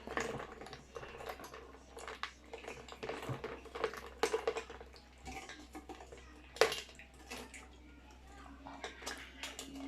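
Close-up mouth sounds of drinking chocolate milk tea and chewing, with many small wet clicks and smacks.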